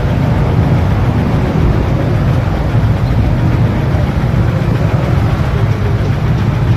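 Motorcycle underway on the road: a steady, even rumble of engine and road noise, heaviest in the low end.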